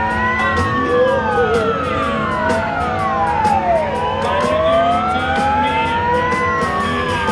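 Emergency vehicle siren wailing: a slow rise in pitch followed by a quicker fall, repeating, with two sirens at different pitches overlapping. Engines rumble underneath.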